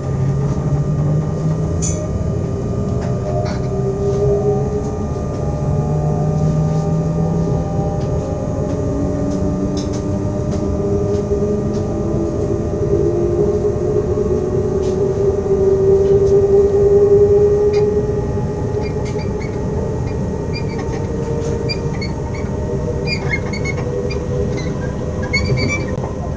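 SNCF Z 20500 (Z2N) double-deck electric multiple unit's traction equipment whining as the train gathers speed, several tones climbing slowly in pitch over a steady rail rumble. Small squeaks and ticks come in near the end.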